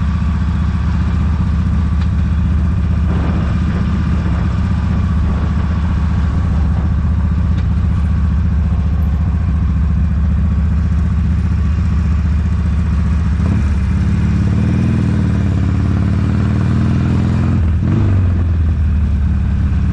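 Motorcycle engine running at a steady speed. About two-thirds of the way through, its pitch rises and wavers for a few seconds, then drops back shortly before the end.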